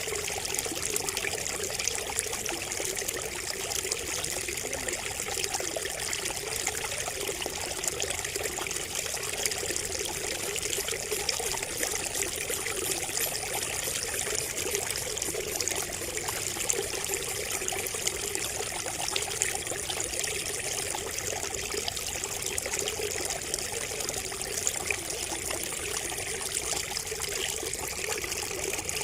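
Water trickling steadily from a bamboo spout.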